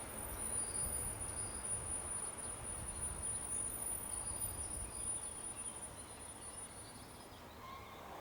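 Outdoor ambience of a high, steady insect trill that stops near the end, with a few brief bird chirps over a low rumble.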